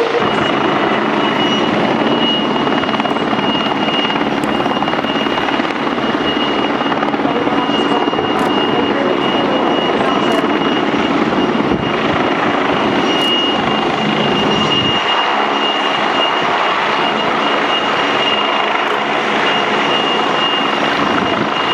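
Helicopter running close by, a steady loud engine-and-rotor noise with a thin, high, constant whine.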